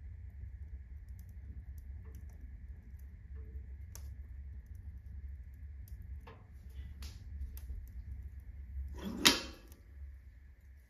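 Firewood burning in a fireplace during the ignition phase, with a low steady rumble of the draft, scattered crackles, and one loud crack about nine seconds in.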